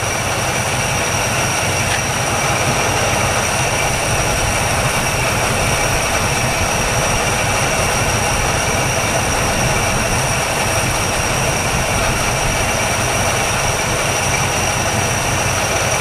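1962 Chevrolet engine idling steadily after warming up on fresh oil, running smooth with no sign of a misfire and the valve train quiet. A thin steady high-pitched tone sits over the engine sound.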